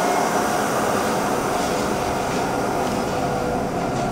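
Gornergrat Railway electric rack-railway train running along the track: a steady whine over a rumbling running noise, easing slightly as the train pulls away.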